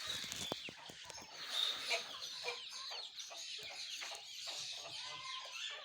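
Chickens clucking among a busy chorus of many short, high chirps and peeps from a flock of birds, with scattered light clicks.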